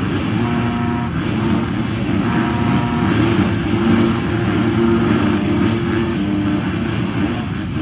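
Several motocross motorcycle engines running at once, their pitches overlapping and shifting.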